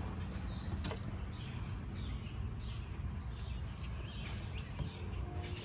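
Faint bird chirps, short and repeated, over a steady low background rumble, with one sharp click about a second in.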